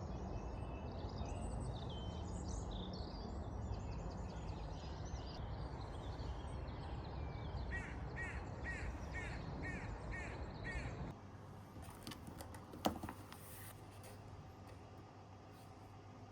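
Birds chirping and singing over a steady outdoor hum, with a run of about eight quick, evenly spaced calls about halfway through. About two-thirds in, it cuts to much quieter room tone with one sharp knock.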